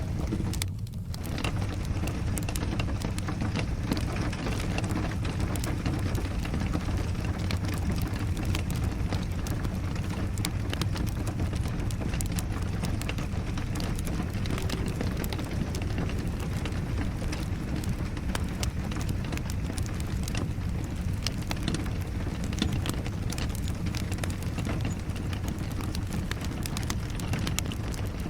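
Steady rain together with a crackling fireplace fire: an even rushing hiss with a low rumble, dotted with many small, irregular pops and snaps.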